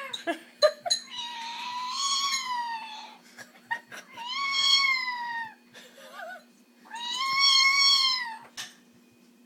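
Amazon parrot mimicking a complaining cat: three long, drawn-out meows, each rising and falling in pitch, with a few sharp clicks near the start.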